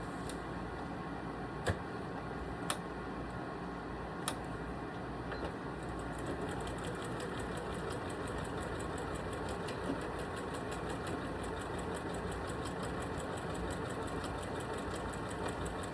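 Janome Skyline S3 sewing machine quilting cross-hatch lines through fabric and foam. A few sharp clicks come first; from about six seconds in it stitches steadily with rapid, even ticking over its motor hum.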